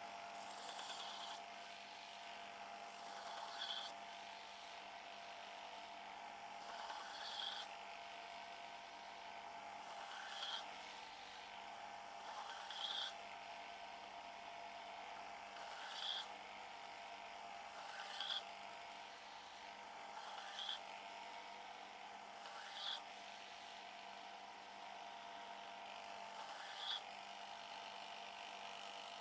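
Sander motor humming steadily, with a short grinding hiss every two to three seconds as the chipped knife edge is passed across the abrasive to grind it back to the bottom of the chips.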